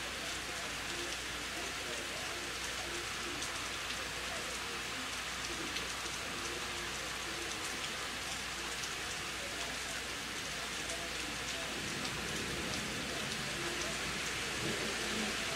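Rain falling steadily during a thunderstorm: an even hiss, speckled with faint ticks of individual drops.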